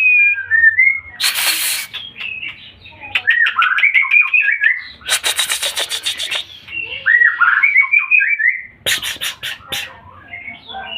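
White-rumped shama (murai batu) singing: varied whistled phrases that glide up and down, broken three times by loud harsh rattling bursts, about a second in, midway, and near the end.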